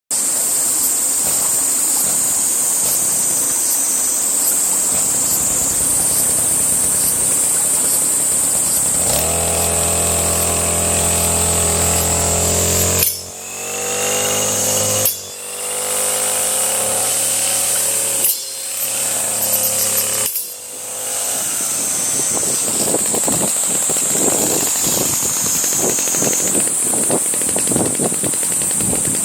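Handheld two-stroke power tool running at high revs. Around the middle it eases off sharply four times and picks up again each time.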